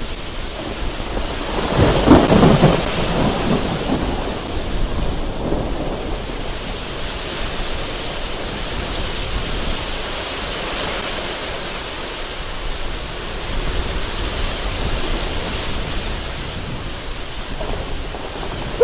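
Heavy rain hissing steadily, with a loud rumble of thunder about two seconds in that dies away over the next two seconds.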